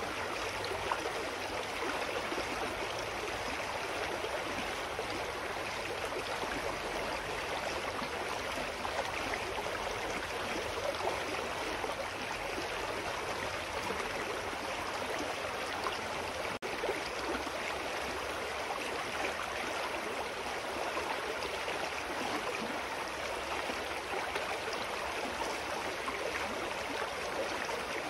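Clear forest stream flowing, a steady rush of running water. A split-second dropout comes about two-thirds of the way through.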